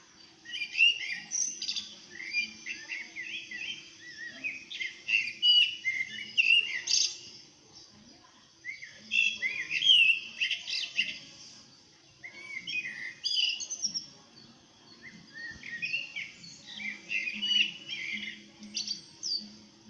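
Songbirds chirping in quick, busy phrases a few seconds long with short pauses between them, from a nature recording played through a phone speaker and re-recorded on another phone.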